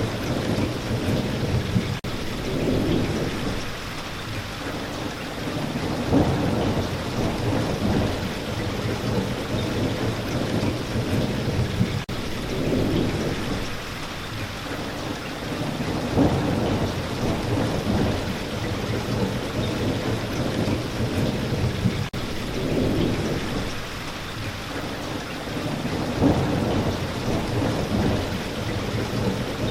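Steady spring rain with a low rolling thunder rumble underneath that swells and fades every few seconds.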